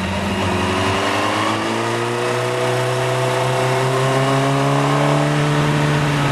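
Motorcycle engine accelerating in gear, its pitch rising steadily for several seconds after a short dip early on, with wind and road noise.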